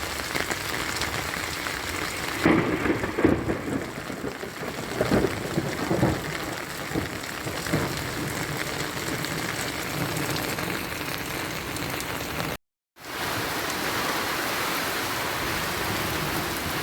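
Heavy rain falling in a steady hiss. A few seconds in comes a stretch of loud, uneven low bursts, from thunder or wind gusts. The sound cuts out completely for a moment about three-quarters of the way through.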